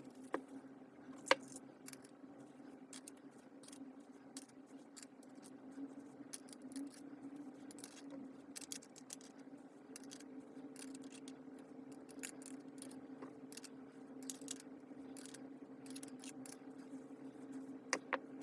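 Scattered small clicks and taps of tools and metal parts being handled while a power tool is taken apart, over a steady low hum. The sharpest clicks come about a second in and twice near the end.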